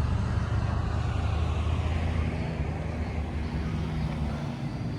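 A vehicle engine running close by with a steady low rumble, its sound sliding down in pitch as it goes past and easing a little near the end.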